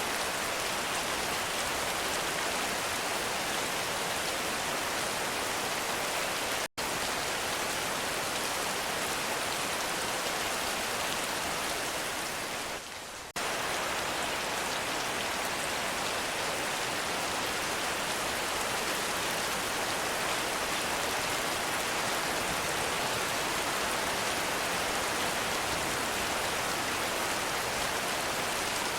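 Heavy rain falling: a steady, even hiss of countless drops. The sound cuts out for an instant about seven seconds in and sags briefly quieter near thirteen seconds.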